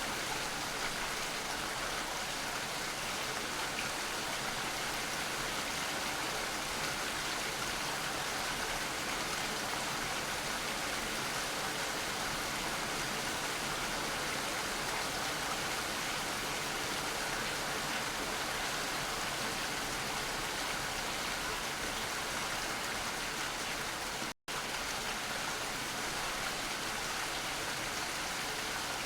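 Steady rain falling, an even hiss without change. It cuts out to silence for a split second once, about five seconds before the end.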